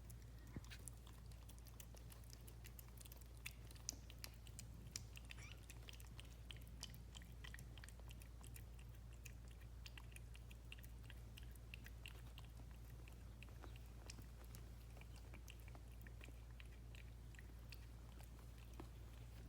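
Faint, irregular wet clicking and smacking of cats' mouths, eating or suckling, over a steady low hum.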